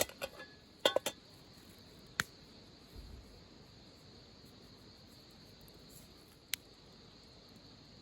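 A few sharp clinks, like cups or utensils knocked together: several in the first second, then single ones about two seconds in and near the end. Under them a steady high drone of insects such as crickets.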